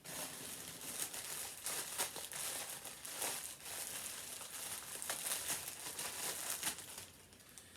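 Plastic bags crinkling and rustling as clothing is handled, in irregular crackles that die down near the end.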